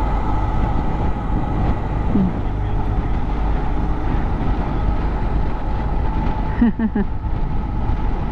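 Motorcycle engine running at a steady road speed, mixed with wind rush on the on-bike microphone.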